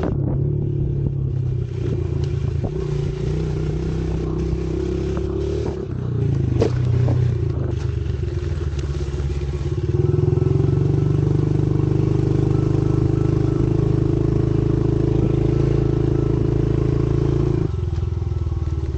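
Pit bike engine running at a fairly steady speed. About ten seconds in it picks up to a higher, louder steady speed, then drops back near the end.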